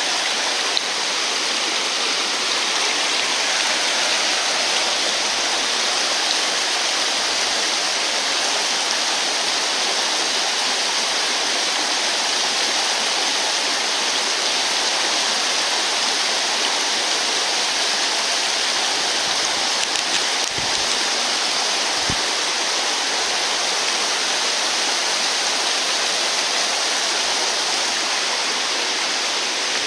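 Steady rushing of flowing water, as from a stream.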